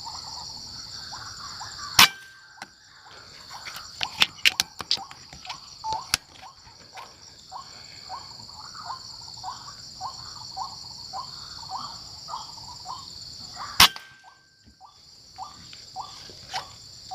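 Two sharp shots about twelve seconds apart, with a cluster of smaller clicks between them. Under the shots runs a steady high insect drone, and a bird gives a short call over and over, about twice a second.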